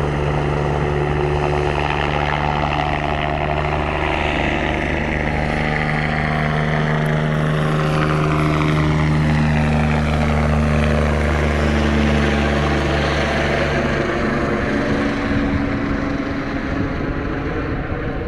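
Sécurité civile Eurocopter EC145 helicopter, rotor and twin turbines running loud and steady, then sliding down in pitch as it flies past and away. It grows fainter in the last few seconds.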